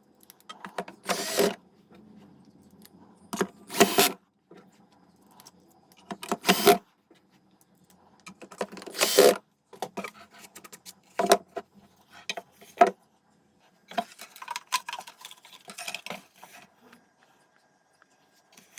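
Hands working on a loudspeaker: irregular clicks and clatter of parts and tools, with several short noisy strokes of about half a second each.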